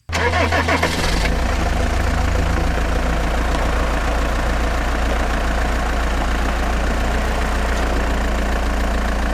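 An engine idling steadily with a strong low hum, starting abruptly and running evenly throughout.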